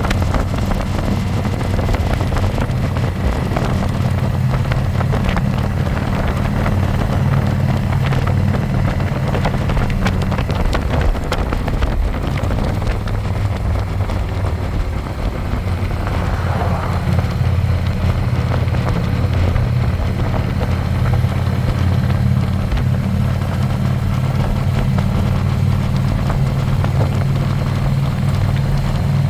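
Harley-Davidson Electra Glide's V-twin engine running steadily, heard from the pillion seat with some wind on the microphone. The engine note dips and shifts briefly about ten seconds in, then settles again.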